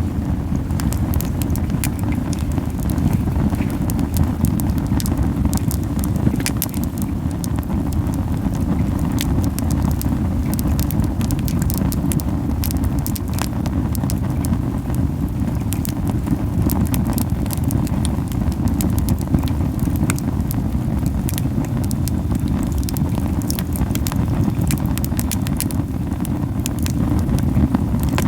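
Campfire of camellia (tsubaki) wood burning hard, with frequent sharp crackles and pops over a steady low fluttering rumble of the flames. The rumble is the puffing flame noise of a fire burning too hot.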